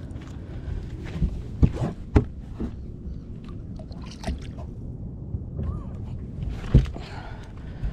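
Water lapping and sloshing against a small fishing boat's hull over a steady low rumble, with a few sharp knocks about a second, a second and a half, two seconds and near seven seconds in.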